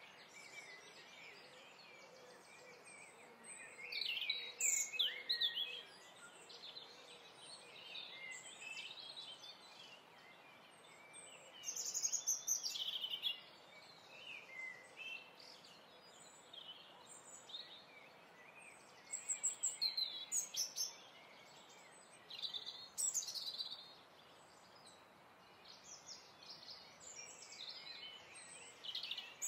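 Birds chirping and singing in short calls and quick trills, coming in spurts every few seconds over a steady soft background hiss.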